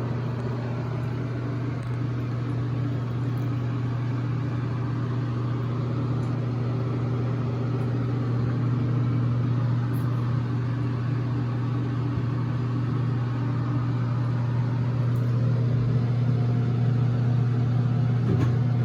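A steady low machine hum, one unchanging pitch with overtones, growing slightly louder toward the end.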